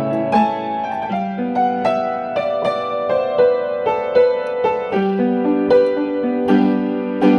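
Piano music: a slow melody of single struck notes over held chords.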